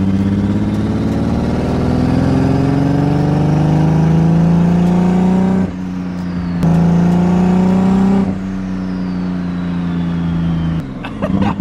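Turbocharged BMW E46 M3 drift car accelerating, heard from inside the cabin. The engine note climbs steadily, dips briefly at a gear change about six seconds in, climbs again, then eases to a lower steady note and drops away near the end. A faint high turbo whistle rises and falls with the revs.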